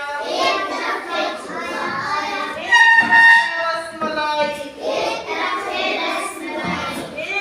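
A high-pitched voice singing a song over music, in held, gliding sung phrases.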